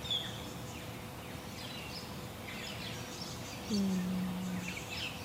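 Wild birds chirping and trilling in the morning over a faint steady hiss; about two-thirds through, a low steady hum sounds for about a second.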